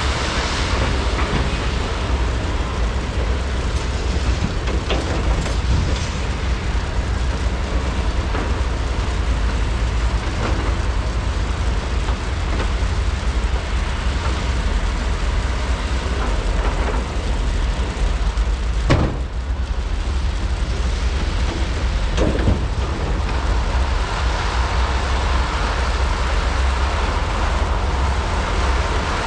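Large hydraulic excavators' diesel engines running steadily under load while digging and loading. Two sharp knocks stand out, one about 19 seconds in and another about 22 seconds in.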